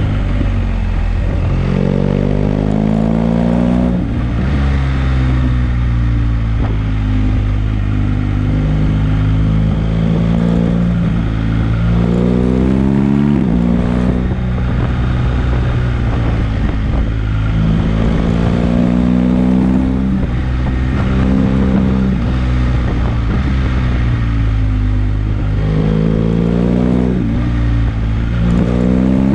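BMW GS boxer-twin motorcycle engine heard from the rider's seat, pulling up through the revs and backing off for bends. Its pitch climbs in long sweeps about four times, each ending in a drop, with steadier or falling stretches between.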